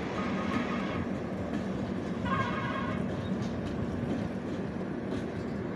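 A train running along the tracks: steady rumble of wheels on rail, with brief high-pitched ringing from the wheels near the start and again about two seconds in.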